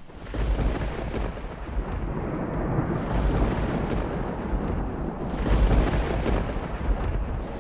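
Thunderstorm: rolling thunder rumbling over a steady hiss of rain, swelling near the start and again about five and a half seconds in.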